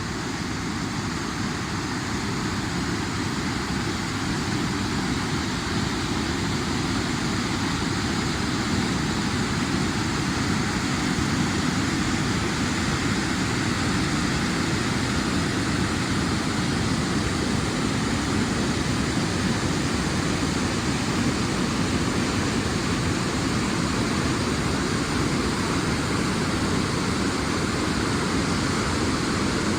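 Steady road and wind noise of a vehicle driving at highway speed, an even low rush with no changes.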